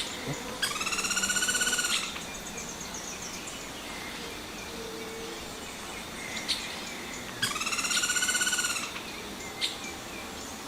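Forest birds calling: two long, nasal calls about six seconds apart, each lasting over a second, with a few short sharp chirps in between over a steady background hiss.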